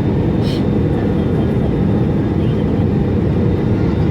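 Steady low roar of engine and airflow noise inside an Airbus A320 passenger cabin during the descent toward landing, with a brief faint hiss about half a second in.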